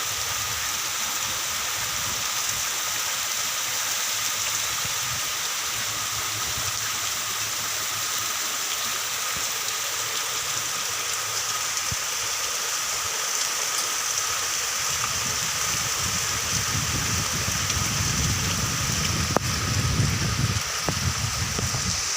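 Steady heavy rain falling on surfaces, an even hiss with scattered drop ticks. A low rumble swells in over the last several seconds.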